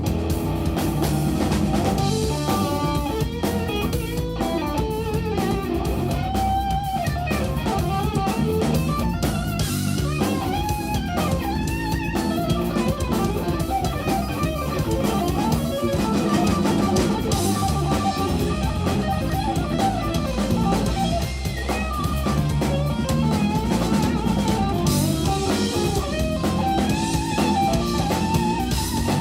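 Live instrumental jazz-rock band playing: an electric guitar melody with bends over bass and a drum kit.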